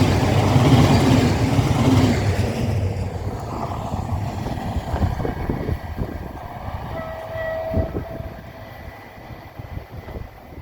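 ONCF train hauled by locomotive E-1462 running past and pulling away, its rumble fading steadily. The wheels click over rail joints, and a brief steady tone sounds about seven seconds in.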